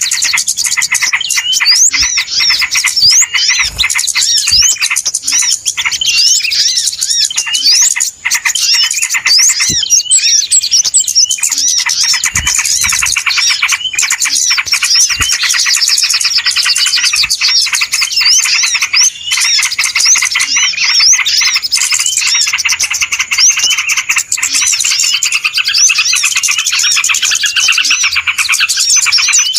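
Bird-luring recording of many small birds chirping and calling at once in a noisy, agitated chorus. Rapid high-pitched notes overlap continuously with no pauses.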